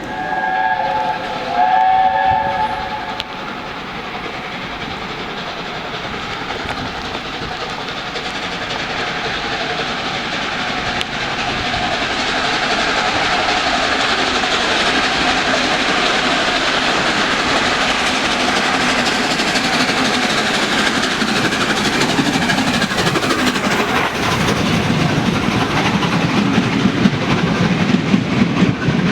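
A steam locomotive's chime whistle sounds two short blasts, then the train's running noise grows steadily louder as it approaches. In the last few seconds the sound deepens, with sharp clicks of wheels over rail joints.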